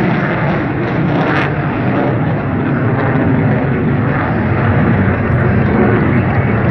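Loud, steady jet noise from an F-22 Raptor fighter's twin turbofan engines as it flies its demonstration.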